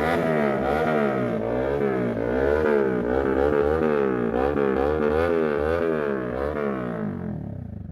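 Honda Winner X single-cylinder motorcycle engine through an aftermarket exhaust, revved in quick repeated throttle blips so the pitch rises and falls about twice a second. It fades out near the end.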